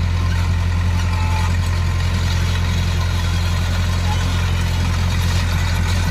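Heavy diesel engine of an earthmoving machine running steadily with a deep, even hum and no change in speed.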